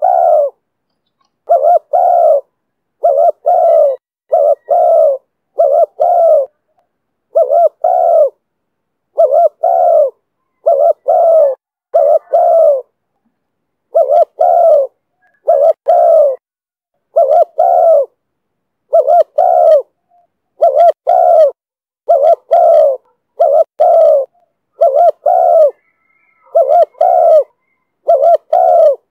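Spotted dove cooing over and over: short low notes, mostly in pairs, repeated about every one and a half to two seconds in a steady series.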